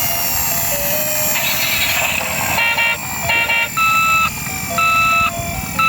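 Electronic siren and horn tones: steady held tones, then from about two and a half seconds in a pattern of short electronic horn-like beeps alternating about twice a second.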